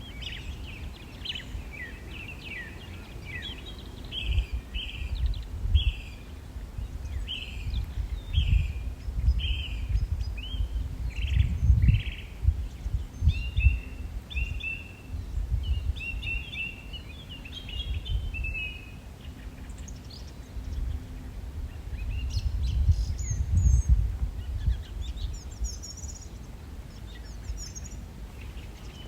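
Songbirds calling: a bird repeats short chirping calls for roughly the first twenty seconds, then higher, thinner chirps come in near the end. An uneven low rumble runs underneath throughout.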